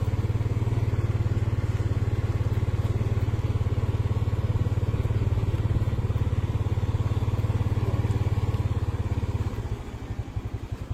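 Motorcycle engine running steadily, then easing off about nine and a half seconds in, dropping to a slower, quieter putter.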